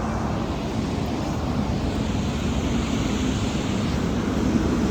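Fire engine's diesel engine running steadily with a low rumble, the apparatus working its pump to supply water.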